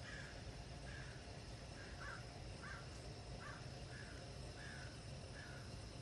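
A bird calling in a steady series of short, similar calls, roughly one every two-thirds of a second, over a low background hum.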